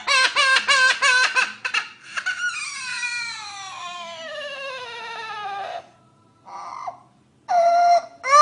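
Green parrot mimicking a human baby crying: a run of quick sobbing cries, about five a second, then one long wail falling steadily in pitch. After a short pause comes a brief cry, then a loud wailing cry begins near the end.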